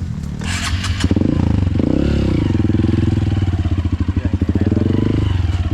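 Dirt bike engine running close by with a rapid pulsing beat. About a second and a half in it revs up and drops back, then holds steady. A brief burst of hiss comes just before the rev.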